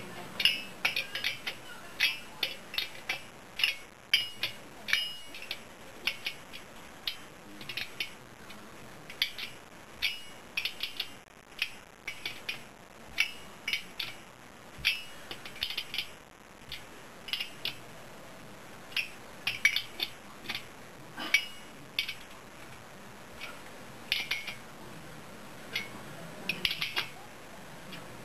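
Socket wrench on a 17 mm socket working the nuts on a scooter engine, giving repeated short metallic clicks and clinks in small clusters with brief pauses between strokes.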